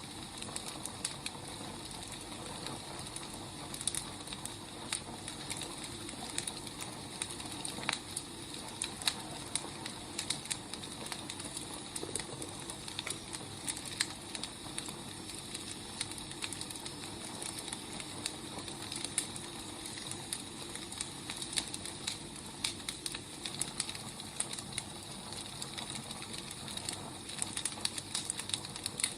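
Wood fire crackling: irregular pops and snaps over a steady low hiss.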